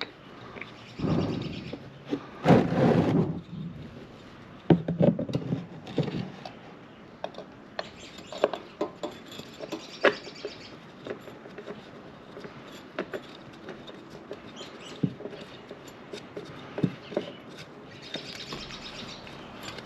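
Hand work on motorcycle oil-filter parts: a couple of longer rustling or wiping sounds in the first few seconds, then scattered light clicks and taps of parts being handled.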